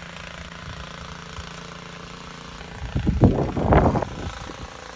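Vehicle engine idling with a steady low hum under blizzard wind noise. About three seconds in, a strong gust buffets the microphone for roughly a second.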